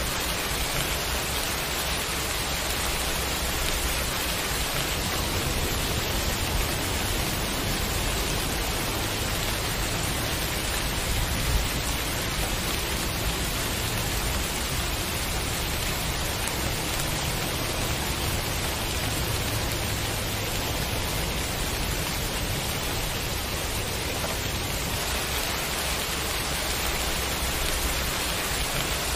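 Steady rain falling as an even hiss, with a low rumble swelling underneath through the middle.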